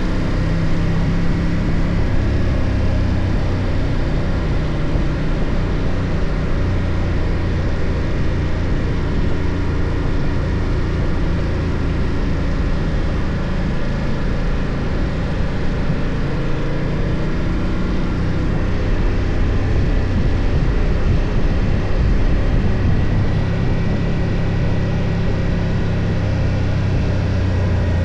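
BMW F 800 GS parallel-twin engine running steadily under way, its pitch drifting gently with the throttle, over wind and road noise.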